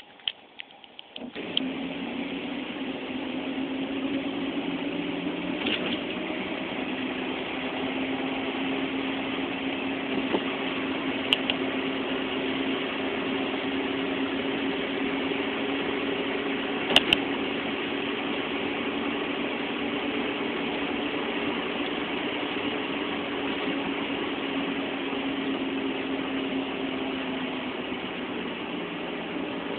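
Car engine running with a steady hum, coming in abruptly about a second in, with a few sharp clicks along the way.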